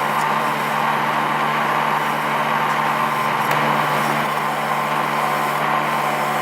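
An electric power tool's motor running steadily under load, a constant hum with a hissing grind over it.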